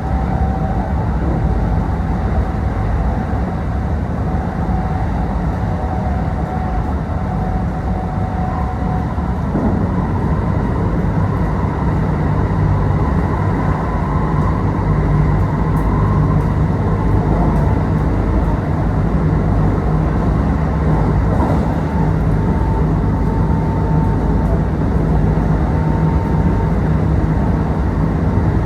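Kintetsu Osaka Line local train running between stations, heard from inside the passenger car: a steady rumble of wheels on rails. A faint high tone runs over it and steps up in pitch about ten seconds in.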